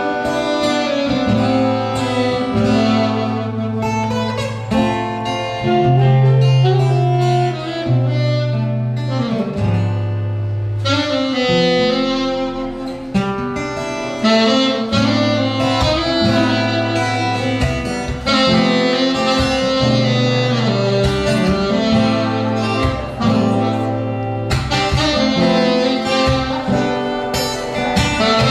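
Saxophone playing a melody over acoustic guitar accompaniment, with sustained low bass notes underneath.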